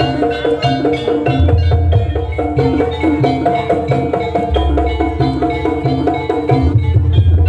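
Jaranan music: a gamelan-style ensemble of drums and pitched percussion playing a fast run of short notes over repeated deep low tones.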